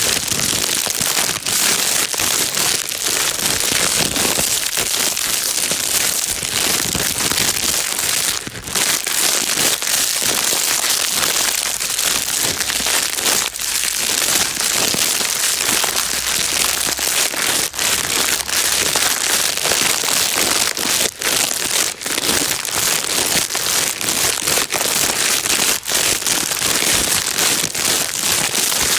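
Plastic bag being crumpled and rustled continuously, a dense crackling rustle used as white noise to calm a baby.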